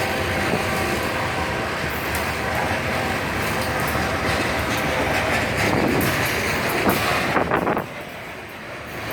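Freight train cars rolling past with a steady rumble and rail clatter. A quick cluster of clanks comes near the end, then the noise drops sharply as the end of the train goes by.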